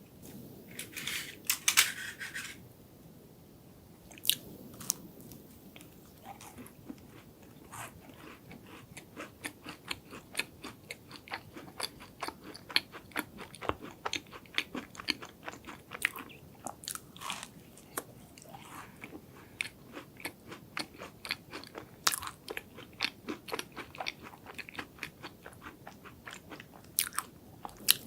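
A person biting into and chewing a crunchy chocolate dessert close to the microphone: a loud crunching bite near the start, then a long run of quick, even crunching chews.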